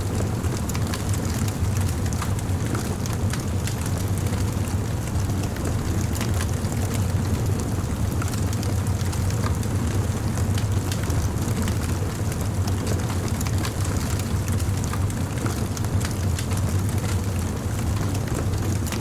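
Campfire burning, with many small irregular crackles and pops from the wood over a steady low rumble.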